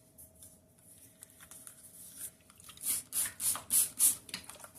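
Wet paintbrush scrubbing in a pan of metallic watercolour to activate the paint: a few faint taps, then about five short, scratchy swishes in quick succession near the end.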